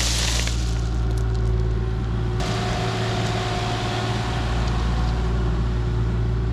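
Diesel engine of a compact construction machine running steadily, with a short rushing noise at the very start and a steady whine for a couple of seconds in the middle.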